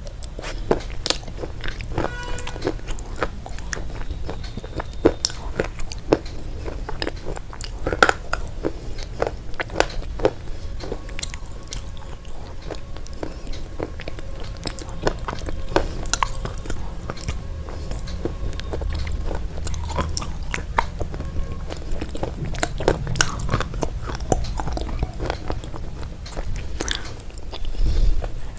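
Close-up crunchy chewing and biting: a continual run of irregular, sharp crunches.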